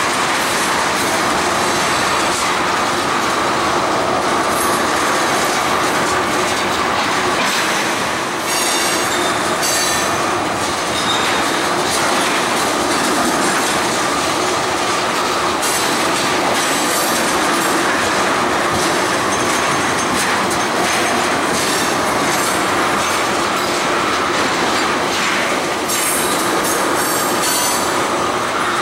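Freight train cars rolling past close by: a steady loud rumble and clatter of wheels on the rail, with intermittent high-pitched wheel squeals.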